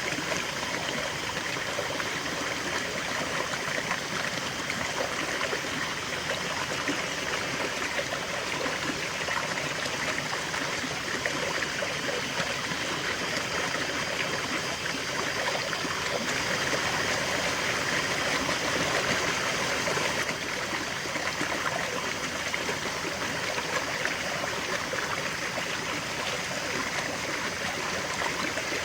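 River water flowing steadily over stones, a continuous babbling and trickling rush with no breaks.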